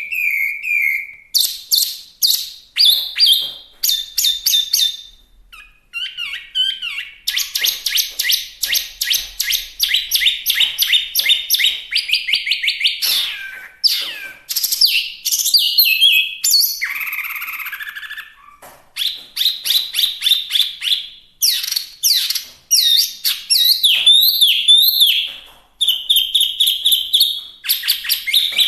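Chinese hwamei singing: a loud, varied song of fast repeated notes and sliding whistled phrases, broken by short pauses, with a harsher rasping phrase about midway.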